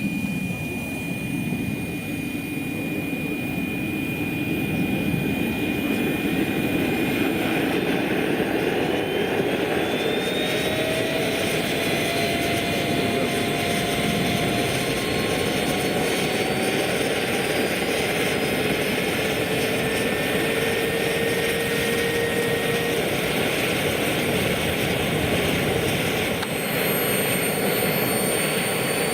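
Turbine engine of a large-scale RC Lama SA-315B model helicopter running steadily, its whine slowly rising in pitch from about a third of the way in.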